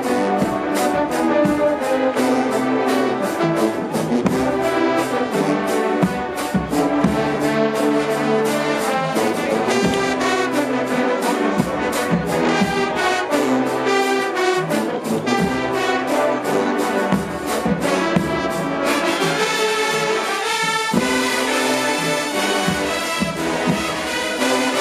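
HBCU show-style marching band playing, the brass section loud over a steady drum beat. The drum hits thin out about three-quarters of the way through while the horns keep playing.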